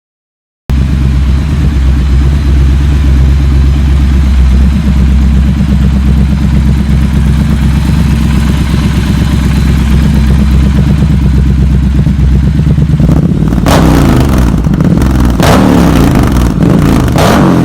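2019 Triumph Scrambler 1200 XC's 1200 cc parallel-twin engine idling steadily through a Zard decat header and Zard slip-on exhaust, then revved several times in quick blips over the last few seconds.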